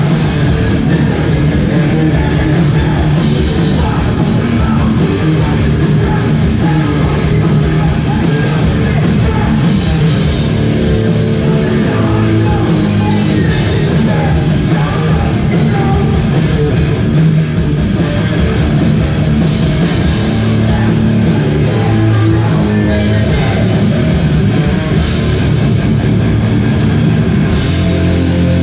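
Hardcore band playing live and loud, with distorted guitars and drums and some shouted vocals.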